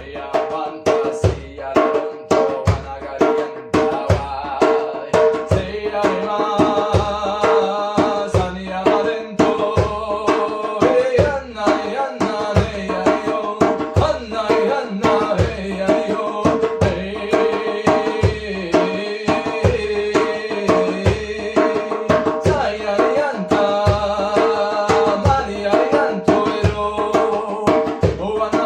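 Improvised hand-played percussion music: struck drum notes in a steady beat, with deep thumps under ringing pitched tones.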